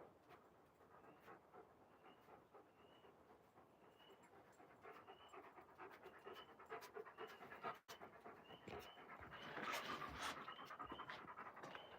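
Alaskan Malamute panting faintly in quick, even breaths, about two a second, growing louder over the second half.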